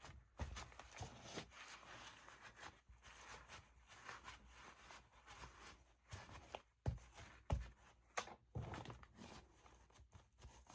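Faint rustling and handling of paper at a craft table, with a few soft taps in the second half as pieces are pressed down.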